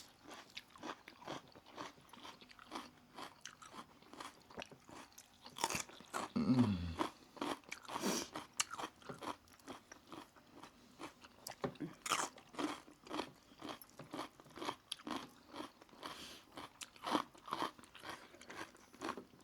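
Close-miked chewing and crunching of roast chicken, with many small crackles and wet bites in a steady stream. A short falling vocal hum comes about six and a half seconds in.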